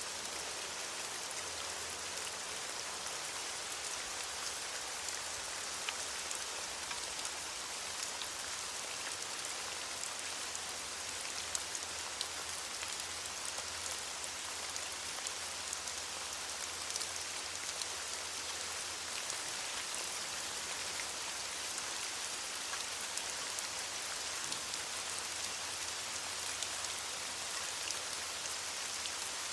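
Steady rain falling on leaves: an even hiss full of many small drop ticks.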